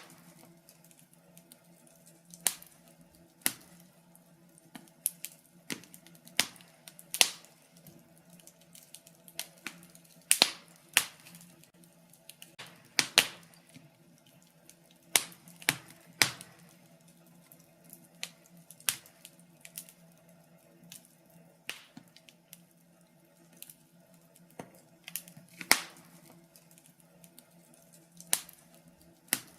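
Wood fire in a fireplace crackling, with irregular sharp pops of varying loudness over a faint steady low hum.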